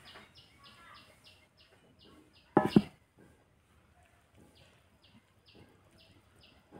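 A bird chirping in a steady series, about three short high chirps a second, stopping for a while mid-way and then resuming. About two and a half seconds in, a loud sharp sound comes twice in quick succession.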